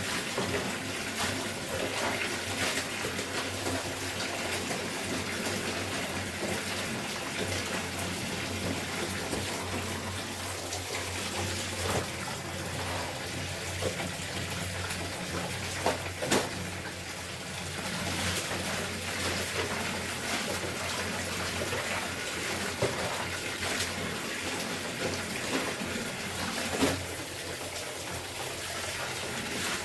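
Water running and splashing steadily as clothes are washed by hand, with a few sharp knocks along the way.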